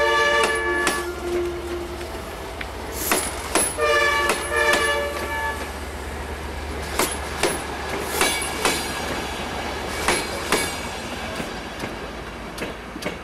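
Departing passenger train of Mk3 coaches rolling past with the wheels clicking over rail joints, often in pairs about half a second apart. The train's horn sounds at the start and again about four seconds in. The clicks thin out near the end as the last coach passes.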